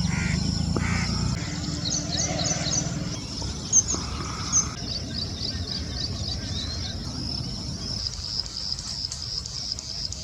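Small birds chirping in quick, high-pitched series, turning into a regular run of notes near the end, over a low rumble. There are two brief louder sounds about four seconds in.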